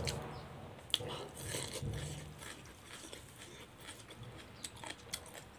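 Chewing and mouth sounds of a person eating rice and curry, close to a clip-on microphone, with a few light clicks.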